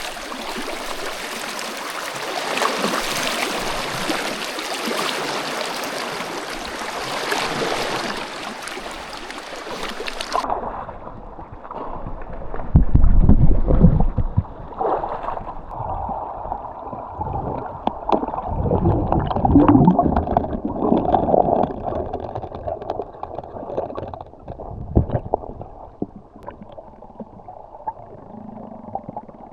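River water rushing in a strong current. About ten seconds in the microphone goes underwater: the rush cuts off suddenly and gives way to muffled underwater gurgling and rumbling, with several low thumps and knocks.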